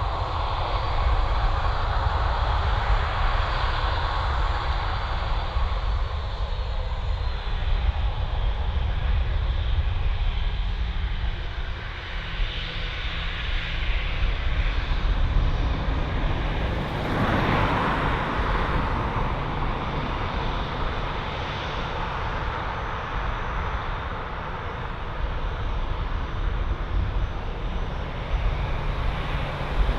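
Aircraft engines running: a steady, wide rumble with a brief swell a little past halfway.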